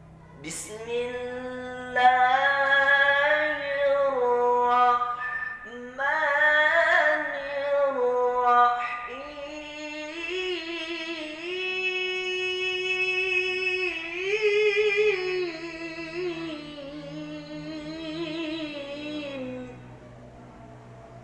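A single voice in melodic Quranic recitation practice (tilawah), holding long ornamented notes with a wavering vibrato. It breathes briefly twice, steps up to a higher held pitch about ten seconds in, and stops near the end.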